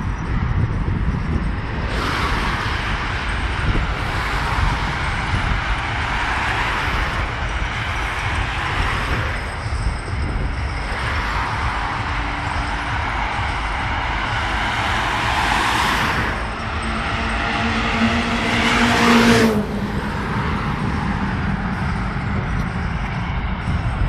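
A car engine revving hard in repeated surges over a steady low rumble. Near the end the engine's pitch climbs for about three seconds and then cuts off abruptly.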